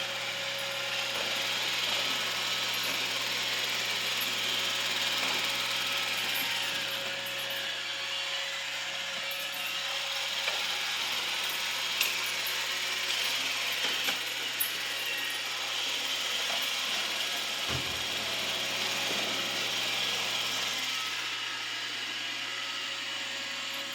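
Roomba robot vacuum running: a steady mechanical whir of its motor and brushes with a faint steady hum, and a few short clicks about halfway through.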